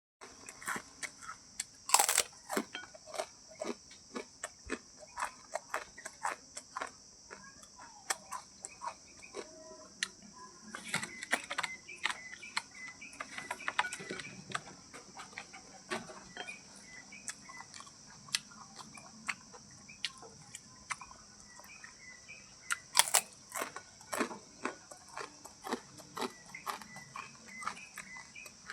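A steady, high-pitched insect chorus, typical of crickets, with many short sharp clicks and taps and scattered faint chirps over it. Two louder bursts stand out, one near the start and one about four-fifths of the way through.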